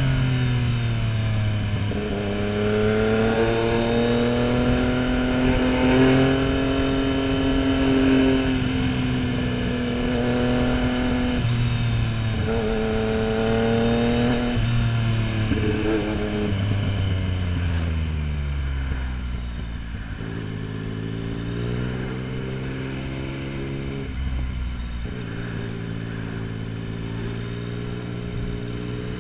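Yamaha MT-09 inline three-cylinder motorcycle engine heard from the rider's seat, pulling up through the revs with short drops in pitch at gear changes, then easing off and running at lower revs in the second half, with wind rush throughout.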